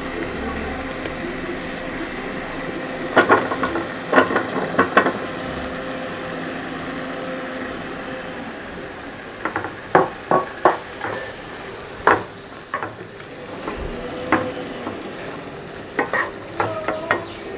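Cauliflower florets frying in a thick onion-tomato masala in a non-stick kadai, a steady sizzle. Over it come scattered clusters of knocks and scrapes as a wooden spatula stirs them through the pan.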